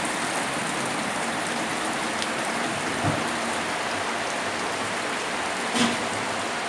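Heavy rain falling steadily on surfaces, a dense even patter, with a couple of louder single drops or drips about three seconds in and again near the end.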